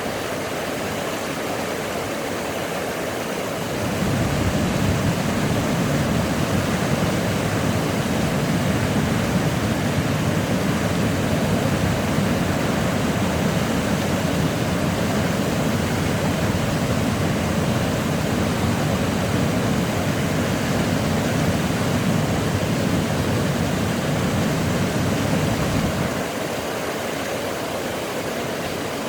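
Waterfall rushing, a steady noise of falling water. A few seconds in it turns louder and deeper, and it drops back abruptly near the end.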